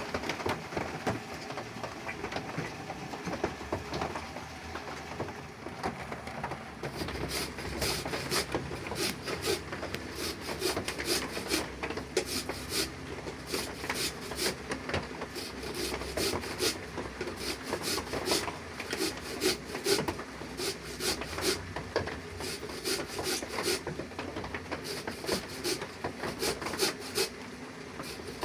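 Repeated rubbing or scraping strokes, several a second, beginning about seven seconds in over a steady background noise.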